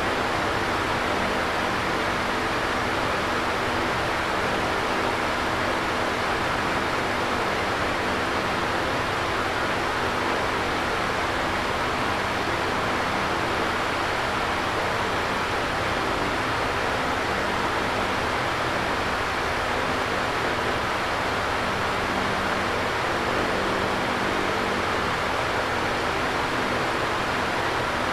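Electric fan running steadily: an even whooshing rush of air with a faint low motor hum underneath.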